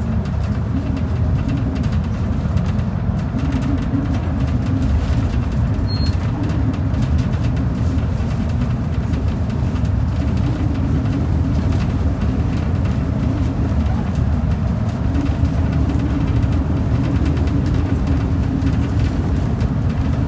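Steady low rumble of a transit bus's engine and tyres, heard from inside the cabin as the bus drives along without stopping or changing pace.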